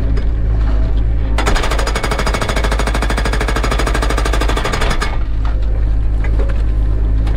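Cat 307 excavator's diesel engine running steadily, with a burst of rapid, evenly spaced mechanical hammering that starts about one and a half seconds in and stops sharply some three and a half seconds later.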